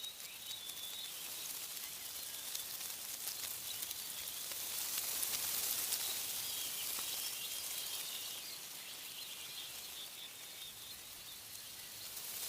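Wind rustling tree leaves, a steady high hiss that swells about halfway through and then eases, with faint bird chirps.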